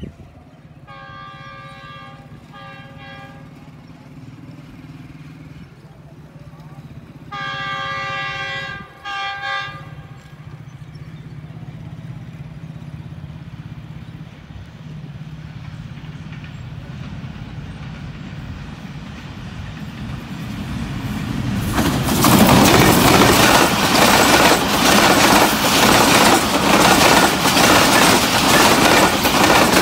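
GE U20 diesel-electric locomotive approaching with its engine running, sounding its horn in two short blasts, then a long blast and two short ones about seven seconds in. The engine grows louder, and about 22 seconds in the train passes close by, loud, with wheels clattering as the passenger coaches roll past.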